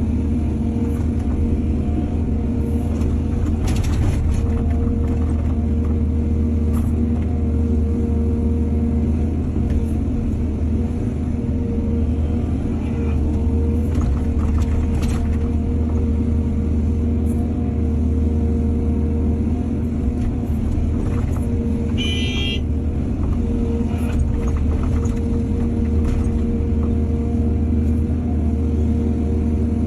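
Excavator's diesel engine running steadily under load, with a few knocks from the machine at work and a brief high-pitched squeal about 22 seconds in.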